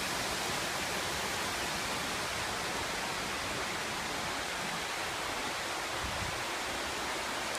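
Steady hiss of a heavy downpour, with rain pouring and runoff water rushing.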